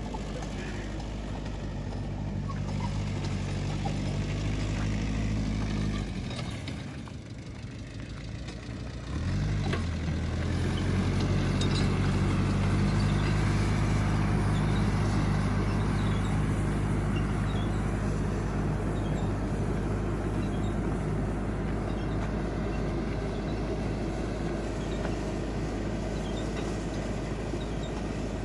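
Tractor engine running steadily, dropping away about six seconds in and picking up again, louder, about three seconds later.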